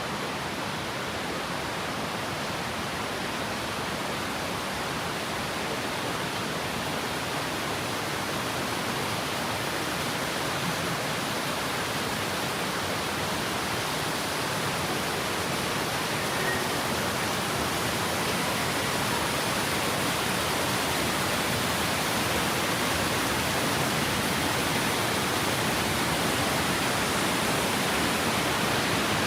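Waterfall: steady rushing of falling water, growing slightly louder.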